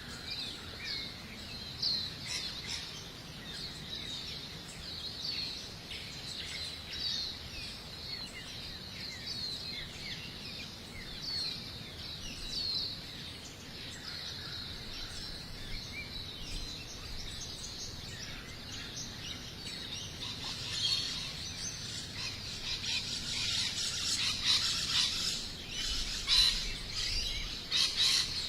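Birds chirping and singing: many short, high chirps repeated over a steady outdoor background hiss, busier and louder in the last several seconds.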